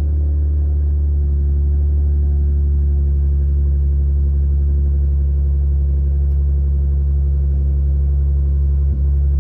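Dodge Charger with a Flowmaster Super 44 muffler exhaust idling steadily with a deep, loud exhaust note after the revs have settled.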